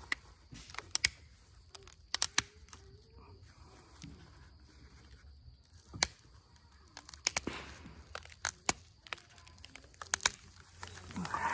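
Pressure flaking the tip of a chert point with an Ishi stick flaker: small flakes snap off in a series of sharp, irregular clicks.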